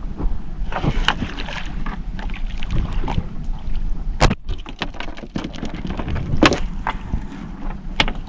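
Small fishing boat's engine running steadily with a low hum, while a few sharp knocks and clatter sound on deck, the loudest about four, six and a half and eight seconds in.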